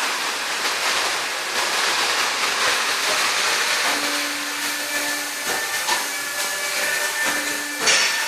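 Tyre-shop workshop noise: a steady hiss of air, with a machine hum that comes in about halfway and comes and goes, and a couple of sharp knocks.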